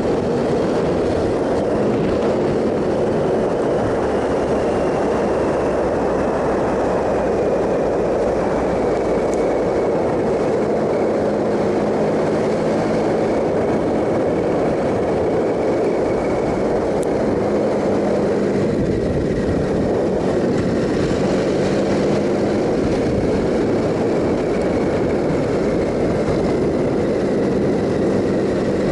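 Triumph Sprint ST 1050's inline three-cylinder engine running steadily while the motorcycle cruises, under a constant rush of wind and road noise.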